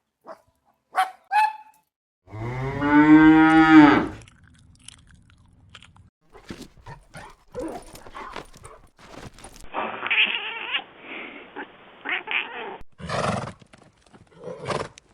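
Animal calls from several short clips: a few brief calls, then one long pitched call of about two seconds that rises and falls, followed by scattered clicks, noise and more short calls.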